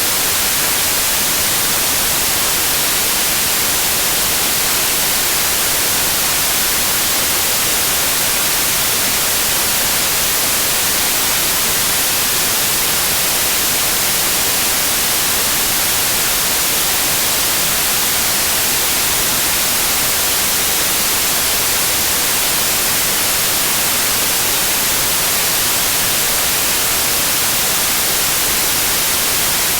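Steady white noise: an even, unbroken hiss, strongest in the high end.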